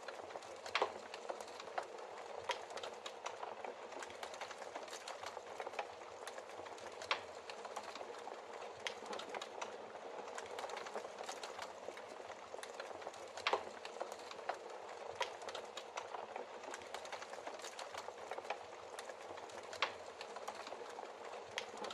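Burning logs in a fireplace, a steady hiss of flame with irregular crackles and sharp pops, a few louder pops standing out.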